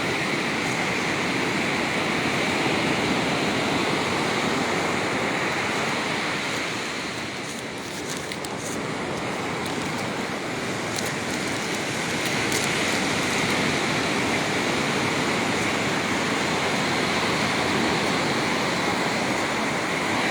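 Ocean surf washing on the beach, a steady rush that dips slightly about seven seconds in and then comes back up.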